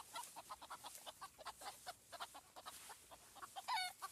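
Bantam roosters clucking in quick, short repeated notes, with one louder squawk near the end.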